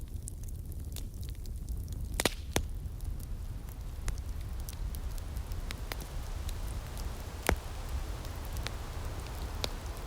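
Outdoor wood fire crackling: irregular sharp pops and snaps over a steady low rumble, with a few louder pops a couple of seconds in and again after about seven and a half seconds, and a soft breeze-like hiss.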